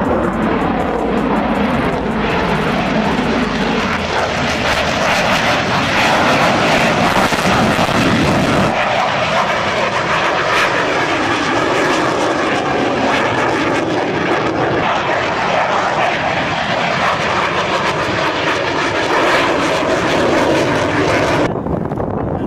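Jet aircraft engines running loud and steady, their tone shifting about nine seconds in as the aircraft's sound changes; the high part of the sound cuts off abruptly near the end.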